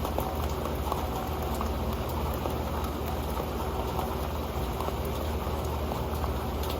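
Rain falling steadily on an old metal pan, a dense pattering of many small drop ticks.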